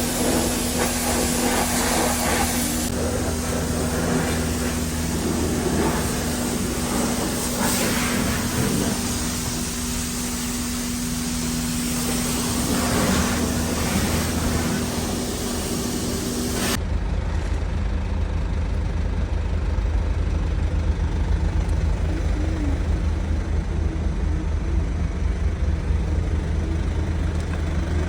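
High-pressure car wash lance spraying water, a loud steady hiss over a steady pump hum, cutting off suddenly about 17 seconds in. A low steady rumble carries on after.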